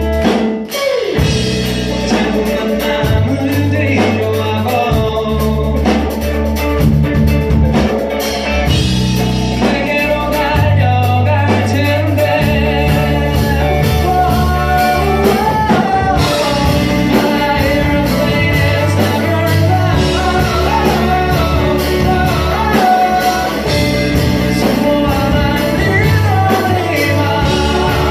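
Live rock band playing a song: electric guitar, bass guitar and drums, with a voice singing the melody over them.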